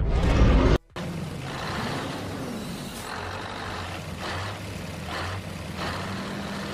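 A loud low rumble cuts off abruptly under a second in. Then a large vehicle's engine runs steadily with a low hum and a hiss over it.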